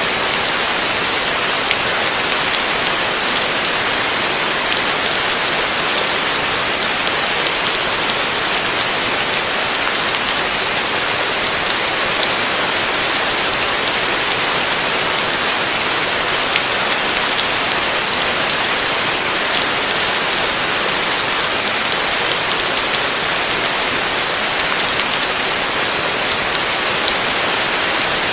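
Heavy rain falling steadily on a roof, a dense even hiss of countless drops with no breaks or thunder.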